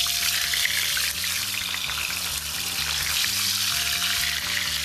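Cod cocochas frying skin-down in hot olive oil in a clay cazuela: a steady sizzle with fine crackles as the oil bubbles around the pieces. Background music with a low, stepping bass line plays underneath.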